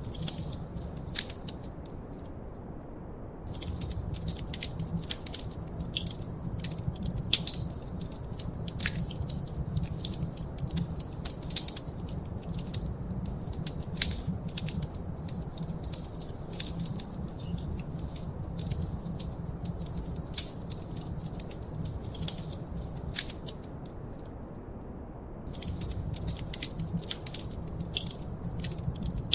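Wood fire crackling in a fireplace: dense, irregular sharp pops and snaps over a low, steady rumble of flame. The crackling stops for about a second, a couple of seconds in and again a few seconds before the end, leaving only the rumble.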